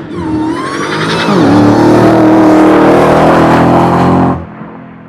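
Car engine accelerating hard, rising in pitch, dipping once about a second in, then holding loud and steady until it cuts off suddenly near the end.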